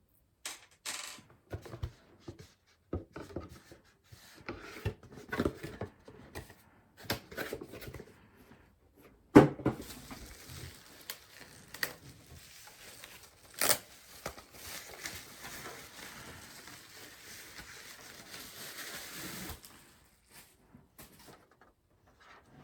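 Hands handling a PC power supply and its packaging: scattered clicks and rustles, two sharp knocks about nine and fourteen seconds in, then about ten seconds of steady packaging rustle.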